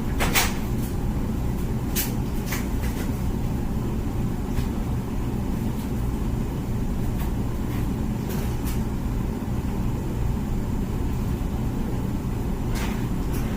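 Comfee dishwasher running through its wash cycle: a steady low hum and rumble, with a few sharp clicks and knocks now and then.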